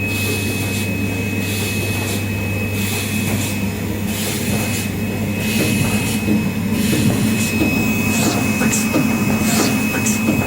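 Four-lane aluminium Nespresso capsule filling and sealing machine running: a steady low hum with a constant high whine, a hiss that swells and fades about once a second, and short clicks in the second half.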